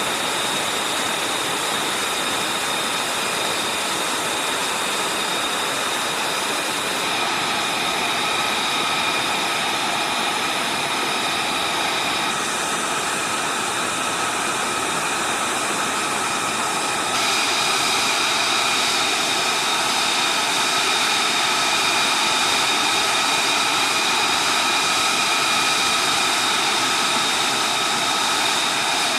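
F-35 Lightning II's jet engine running steadily, a loud rush with a steady high whine over it. The sound shifts abruptly about a third and halfway through, as between cut shots.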